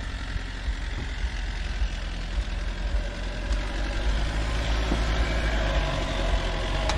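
Off-road vehicle engine running with a steady low rumble, growing a little louder about halfway through.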